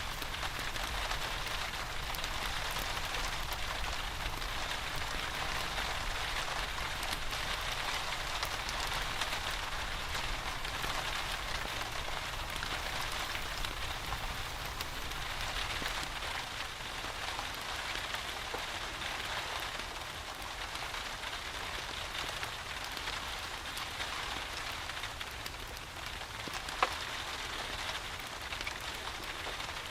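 Steady rain falling, an even patter throughout. Near the end comes a single sharp click.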